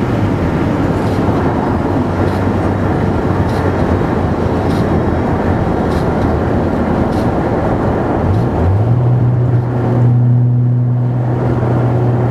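Roots-supercharged Honda S2000 inline-four with a 3-inch dual exhaust, running steadily under way. About eight seconds in the engine note steps up to a slightly higher pitch and holds.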